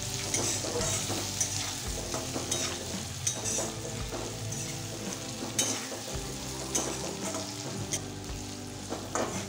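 A spatula repeatedly scraping and stirring okra, potato and prawns through spice paste in a metal wok, over a steady sizzle of frying oil. The ground spices are being fried until their raw smell goes.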